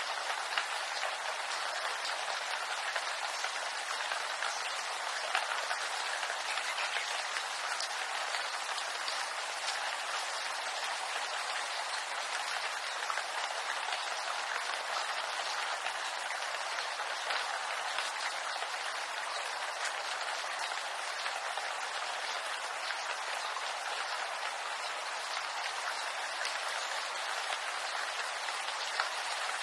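Steady rain falling in a bamboo grove: an even hiss of rainfall made of countless small drop ticks on the leaves, with no change in strength.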